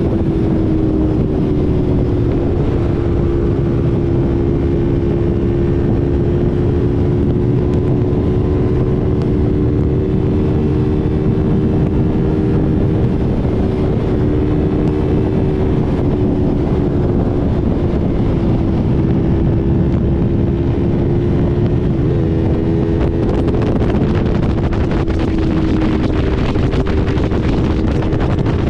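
Motorcycle engine, plausibly the Yamaha R3's small parallel twin, running at a steady cruising speed with a held, slowly drifting pitch. Heavy wind rushes over the microphone throughout.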